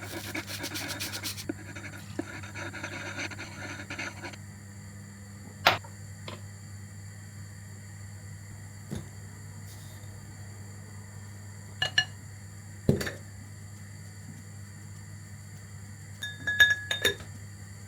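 Kitchen handling noises: a few seconds of scraping and rustling, then scattered sharp clinks of glass and dishes, a few ringing briefly, loudest near the end. A steady low hum runs underneath.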